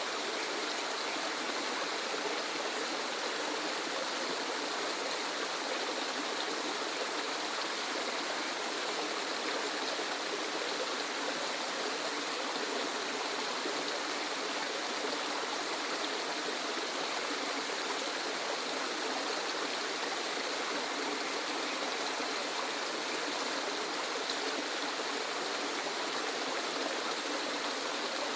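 Waterfall rushing steadily: an even, unbroken hiss of falling water, bright and without much low rumble.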